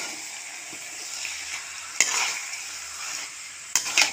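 Raw chicken pieces frying with onions in oil in a large metal pot: a steady sizzle while a metal ladle stirs and sautés them, knocking and scraping against the pot about two seconds in and again near the end.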